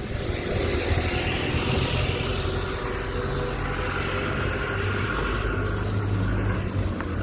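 Road traffic: a car driving past, its engine and tyre noise swelling and fading.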